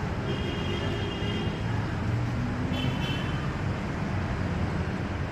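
Street traffic running steadily, a dense low rumble of passing vehicles. Two brief high-pitched tones cut through it, one shortly after the start and a shorter one near the middle.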